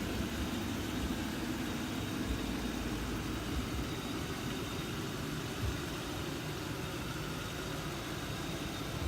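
Ford Crown Victoria's V8 idling steadily while it warms up.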